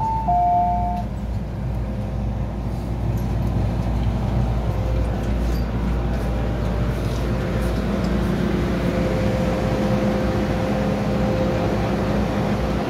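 Hong Kong MTR M-Train door chime, a falling two-note ding-dong about a second long at the start. It is followed by the steady low rumble and hum of the train car, with faint steady tones coming in after about eight seconds.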